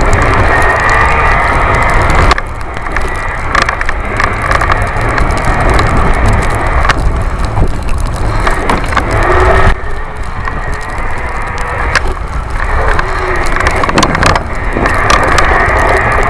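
Wind buffeting the microphone of a camera mounted on a moving Busetti Vortex electric bike, with rattles and clicks from the mount and a faint whine from the electric motor rising and falling in pitch. The noise drops back twice and swells again as the speed changes.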